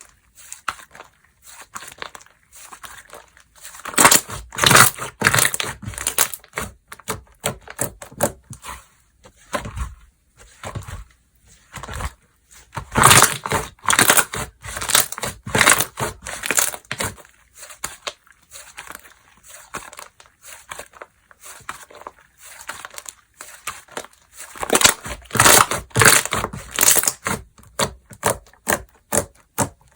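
Slime being squeezed, stretched and pressed by hand, giving off dense crackling pops and squishes. The popping comes in three louder stretches, about 4, 13 and 25 seconds in, with quieter crackles between.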